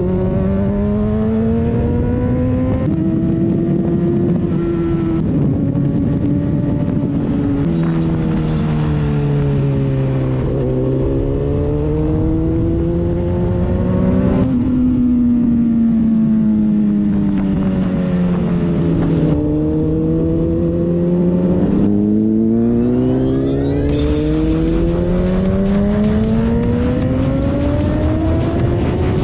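2007 Honda CBR600RR's inline-four engine through a MIVV aftermarket exhaust, revving up with several sharp pitch drops at gear changes, winding down in the middle, then accelerating again. Heavy wind buffeting on the microphone, strongest in the last few seconds.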